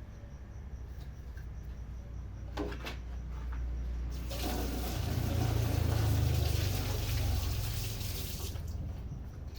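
Water running from a tap into a sink for about four seconds, starting a few seconds in, with a few light knocks before it.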